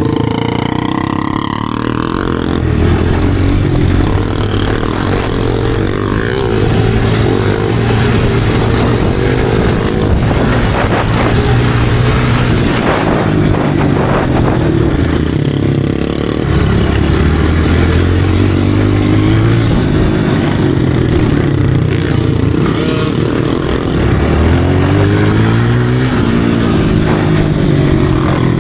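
Motocross dirt bike engine running under throttle, its pitch rising and falling as it accelerates and changes gear, with a steep climb in revs near the end.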